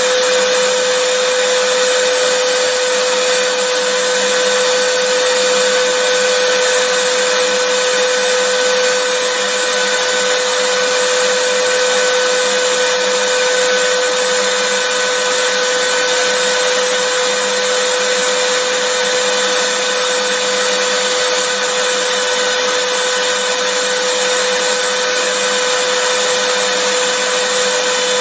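Vacuum cleaner motor running steadily, a constant whine near 500 Hz over an even rushing hiss of air.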